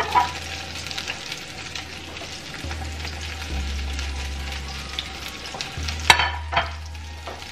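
Spaghetti and diced zucchini sizzling in a frying pan while a silicone spatula scrapes the zucchini in off a plate, with a couple of sharp clinks about six seconds in.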